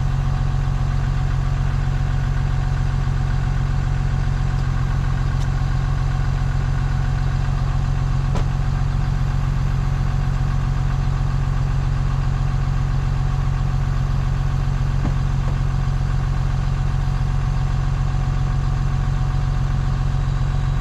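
Ford Bronco's engine idling steadily, warming up after a cold start on a near-freezing morning.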